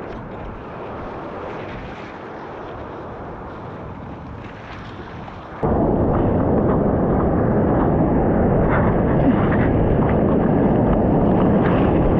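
Steady rushing, rumbling noise with no clear tone, like wind buffeting the microphone; it jumps abruptly much louder about five and a half seconds in.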